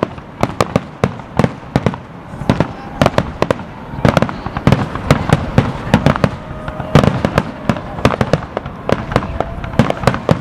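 Aerial firework shells bursting in a rapid barrage: sharp bangs come several a second over a continuous rumble of further bursts, and the loudest cluster comes about seven seconds in.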